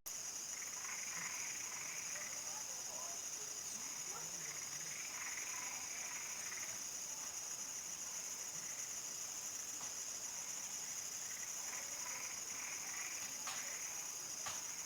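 Crickets trilling in one steady, high, unbroken band, with frogs calling in short bouts every few seconds over it. A few faint clicks come near the end.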